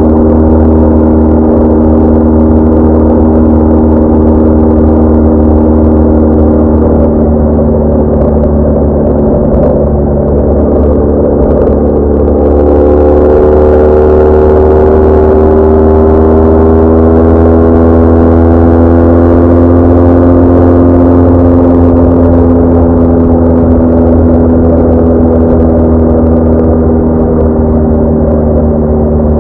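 BMW R1200R's flat-twin engine running under way at steady cruising revs. A bit before halfway the pitch climbs gradually as the bike speeds up, then eases back down near the end.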